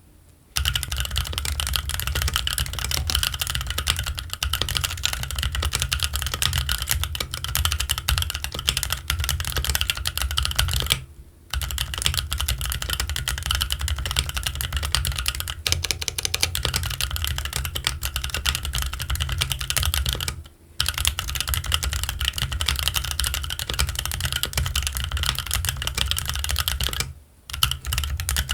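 Continuous fast typing on a Keychron Q1 mechanical keyboard with Gazzew Boba U4T tactile switches and ABS Cherry-profile keycaps, a dense run of keystrokes. It stops briefly about three times: about a third of the way in, about two thirds in, and near the end.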